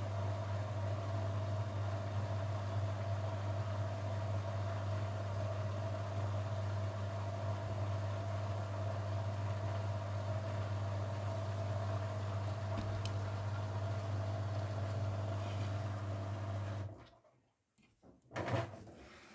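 Grundig washing machine running with a steady hum that cuts off suddenly about seventeen seconds in, followed a second and a half later by a single thump.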